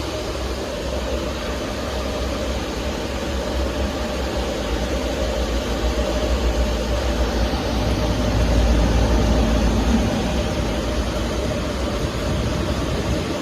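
Automatic pet washing machine running its disinfection cycle: a steady mechanical hum and rush with a low rumble, swelling slightly in the middle and easing off again.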